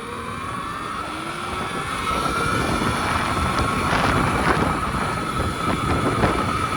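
Electric pit bike's motor whining as it accelerates flat out, its pitch rising over the first couple of seconds and then holding steady at speed, with heavy wind noise on the microphone.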